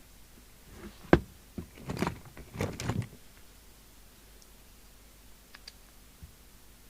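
Tools and small parts handled on an electronics workbench: a sharp click about a second in, then a couple of seconds of clattering and rattling, with a few faint ticks near the end.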